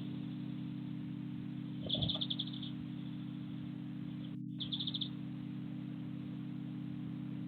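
A small bird's calls: two short trills of rapid high chirps, about two seconds in and again about halfway through, over a steady low hum.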